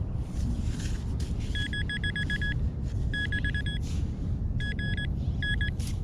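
Metal detecting gear beeping in quick, even-pitched pulsed bursts, four clusters of rapid beeps, signalling a shallow metal target, here a beaver-tail pull tab. The beeps sound over a steady low background rumble.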